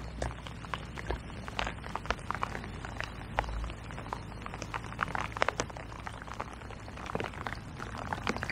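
Raindrops tapping irregularly, many separate sharp ticks, over a low wind rumble on the microphone.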